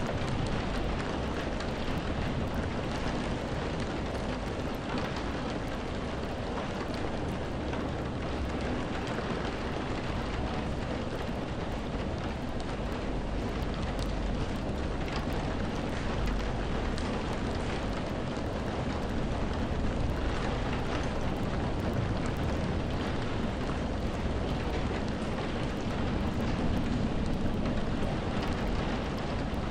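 Steady rain falling, a continuous hiss dotted with fine drop patter, over a low rumble.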